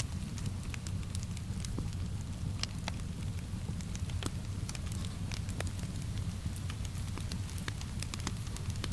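Wood fire crackling: sharp pops at irregular intervals over a steady low rumble, mixed with a soft hiss of rain.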